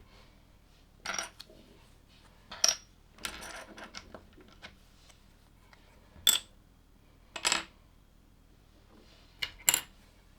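Small hard plastic LEGO pieces being handled: a series of sharp clicks and short clatters, about six in all, with a longer rattle a little after three seconds.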